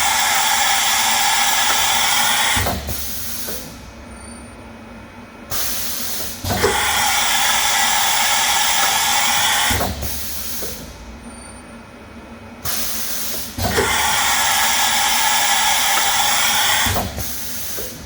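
Milltronics RH33 CNC toolroom mill running a repeating cycle. Three times, a short quieter stretch is followed by about three seconds of loud hissing with steady ringing tones in it, which then drops back.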